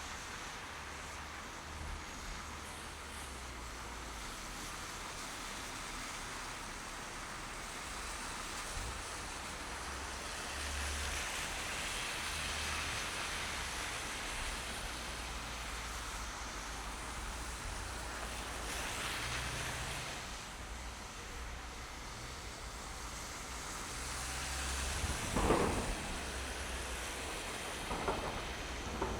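Steady road and traffic noise of a car driving through snowy city streets: tyre rush and low engine rumble, swelling now and then as traffic passes. A short thump about 25 s in is the loudest sound, with a smaller one near the end.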